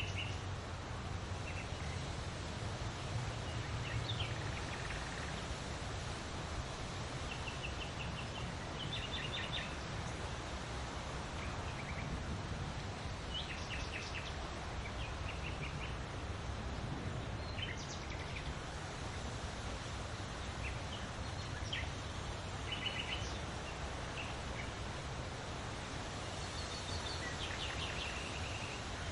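Scattered bird calls and short trills over a steady hiss of outdoor background noise with a low rumble.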